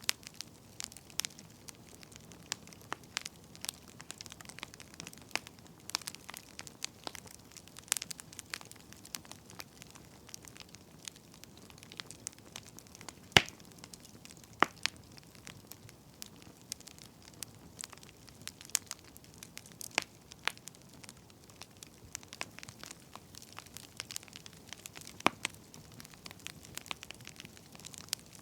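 Wood fire crackling: irregular sharp pops and snaps over a faint hiss, with one louder pop about halfway through.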